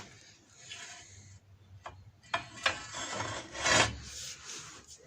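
Metal hand tools scraping and clinking on a car's front hub: a breaker bar with a 30 mm socket and a pipe extension being worked on a hub nut that has just broken loose. Irregular scraping, with a few sharp clicks past the middle and the loudest scrape a little later.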